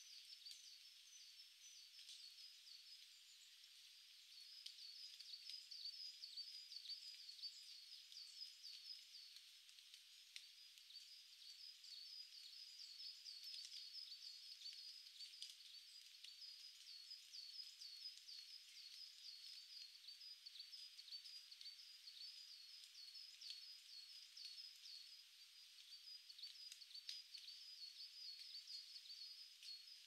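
Small forest birds calling faintly: long strings of quick, high chirping notes, with a short break about ten seconds in. A few soft ticks fall among them.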